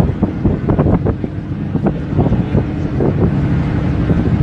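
Wind buffeting the microphone over the steady drone of a running vehicle engine.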